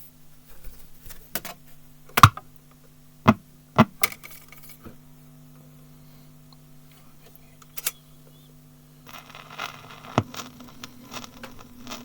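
Railway recording: a steady low hum with sharp metallic clanks, four of them, the first the loudest. A hiss with rapid small clicks comes in about nine seconds in.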